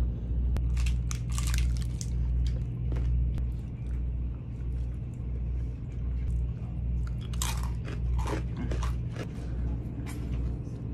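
Close-mic'd biting and chewing of food, with crisp crunches about a second in and a second cluster of crunches near the end as Pop-Tarts are bitten. Underneath runs the steady low hum of the tour bus.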